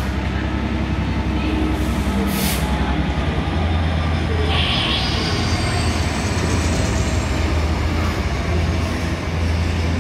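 GBRf Class 66 diesel-electric locomotive, with its EMD two-stroke V12 engine, passing close by at the head of a container freight train: a steady low engine drone under the continuous rumble of wheels on rail. A short high screech comes about halfway through.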